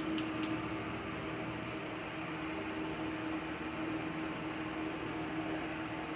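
Steady mechanical hum of a small motor, such as a fan, with a few sharp clicks in the first half second.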